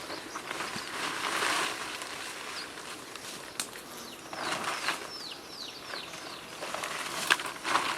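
Rustling in leaves and undergrowth, coming in three bursts: about a second in, midway and near the end, with a couple of sharp clicks. Midway there is a quick run of about five short whistles, each falling in pitch.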